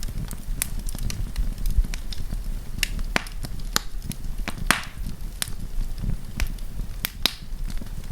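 Wood campfire burning with a low steady rumble of flame, broken by irregular sharp crackles and pops of the burning wood, one longer hissing crackle about halfway through.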